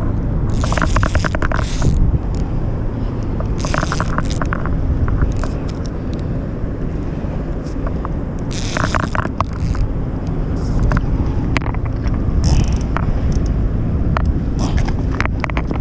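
Steady low outdoor rumble with scattered short scrapes and clicks.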